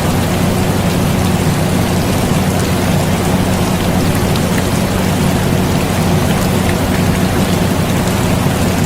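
Steady rain falling, with scattered drop ticks, over the constant low hum of an air conditioner.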